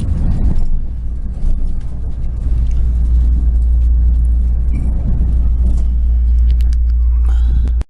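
Steady low rumble of a moving passenger train heard from inside the carriage, with a few faint clicks near the end. It cuts off suddenly at the very end.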